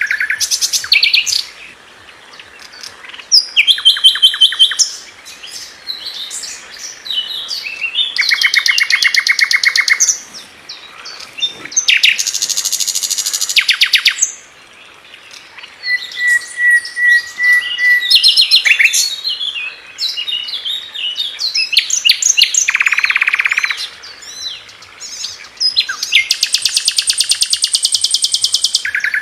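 Sikatan londo flycatcher singing loud, varied song. Its very fast, tightly packed bursts of repeated notes, each lasting a second or two, alternate with shorter chirps and twitters.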